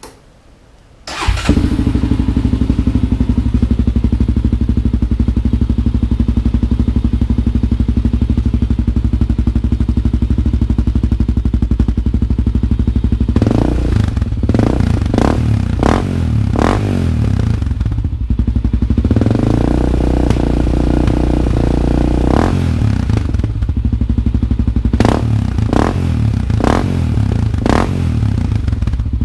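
1999 Honda 400EX's single-cylinder four-stroke engine running loud through an FMF Q4 slip-on muffler with its spark arrestor removed, heard up close. It idles steadily at first, then is revved with a string of sharp throttle blips, one longer rev, and another run of quick blips near the end.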